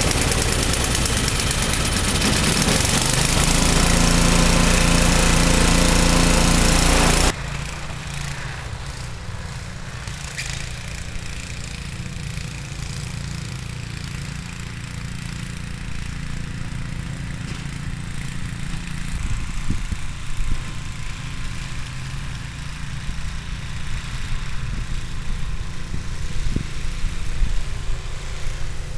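Ariens two-stage snowblower's 5 HP Tecumseh single-cylinder engine running at full throttle on a cold start, full choke. About seven seconds in the sound drops abruptly to a quieter, lower engine running.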